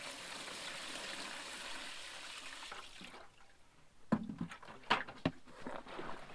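Water pouring into a manual clothes washer's tub for about three seconds, then stopping, followed by a few knocks and clatters as the washer is handled.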